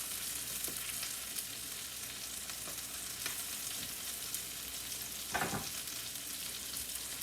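Fish fillets frying in butter and garlic in a pan, a steady sizzle with light crackles. One short, louder sound comes about five and a half seconds in.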